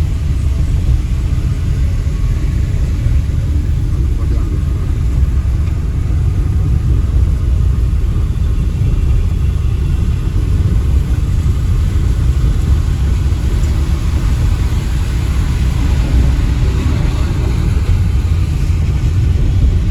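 Steady low rumble of a car being driven, the engine and road noise running on evenly without a break.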